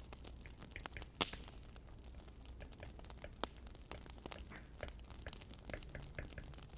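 Wood fire crackling: irregular small pops and snaps, with one sharper crack about a second in, over a faint low hum.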